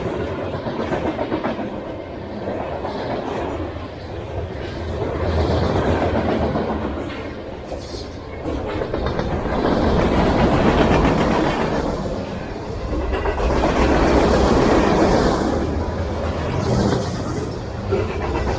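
Freight train cars rolling past, their wheels clicking over the rail joints in a steady rumble that swells and eases every few seconds.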